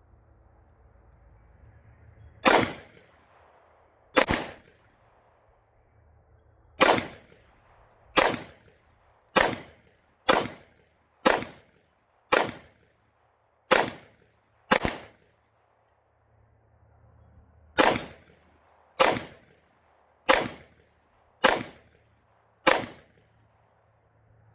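Fifteen shots from a Smith & Wesson M&P 2.0 pistol in 10mm firing hollow-point rounds, slow aimed fire at about one shot a second, with a pause of about three seconds after the tenth shot.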